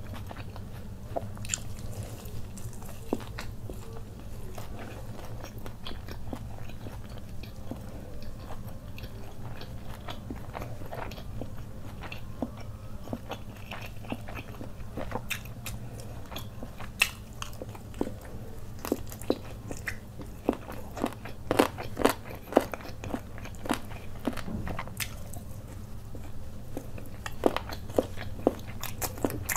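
Close-up chewing and crunching of fried chicken, with many short crisp crunches that come thickest about two-thirds of the way through and again near the end, over a steady low hum.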